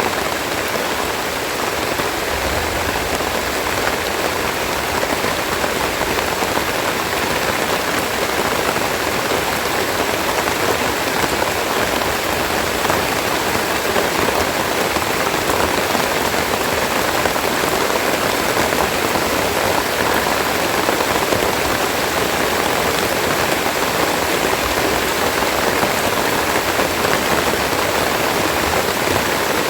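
Steady heavy rainfall, a dense even hiss of drops pattering on leaves and surfaces.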